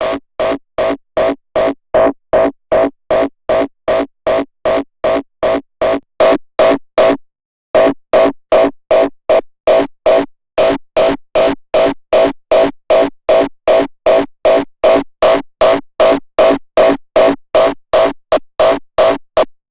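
Synthesized raw hardstyle kick drum looping on its own at about two and a half hits a second, each hit a short, distorted, pitched thump. The loop pauses for a moment about seven seconds in, then resumes, and stops just before the end.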